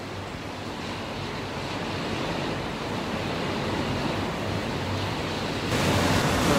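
Heavy rain pouring down with strong wind: a steady rushing hiss. Near the end it jumps suddenly louder and hissier.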